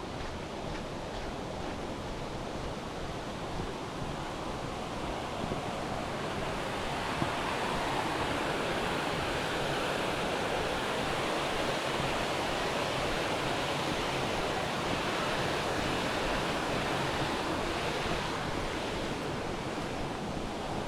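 Steady rush of a waterfall's falling water, growing a little louder about seven seconds in.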